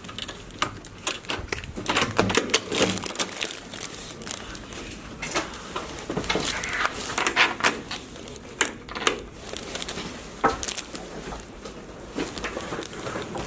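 Irregular clicks, knocks and rustling, like objects being handled at close range.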